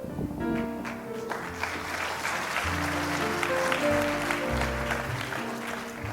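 Audience applauding over instrumental scene-change music with a bass line. The clapping builds about a second in and fades near the end.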